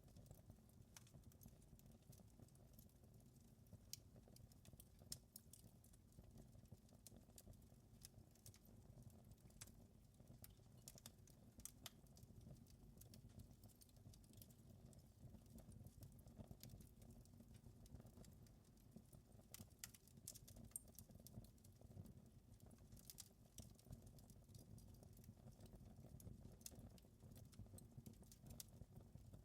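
Faint crackling wood fire: irregular small pops and snaps over a low, steady rumble of flames.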